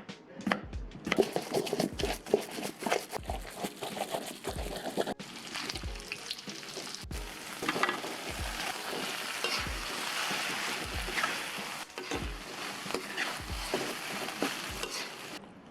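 Food sizzling and being stirred in hot frying oil, over background music with a steady kick-drum beat; the sound cuts abruptly twice, as between edited clips.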